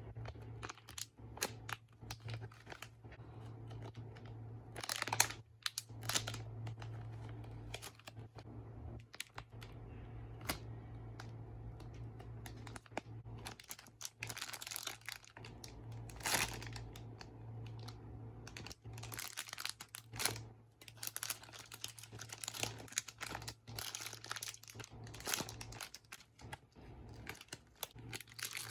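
Plastic packaging crinkling and rustling as squishy toys are handled, with irregular small taps and clicks throughout, over a steady low hum.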